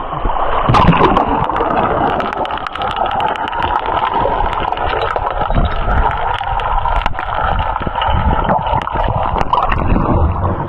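Swift river water rushing and gurgling right at the microphone, with many small sharp clicks and splashes.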